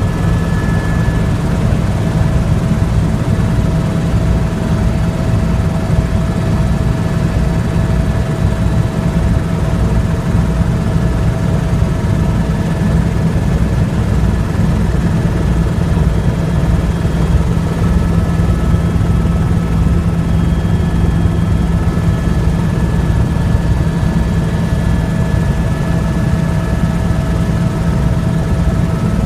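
Helicopter running steadily: the rapid, even beat of the rotor blades under a steady whine from the turbine engine.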